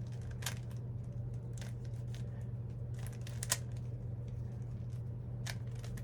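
Plastic puzzle cube being twisted by hand: scattered sharp clicks as its layers turn and snap into place, over a steady low hum.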